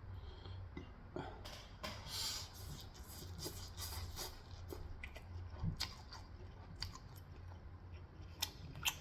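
Someone chewing food, with irregular crisp clicks and crunches and a couple of sharper clicks near the end.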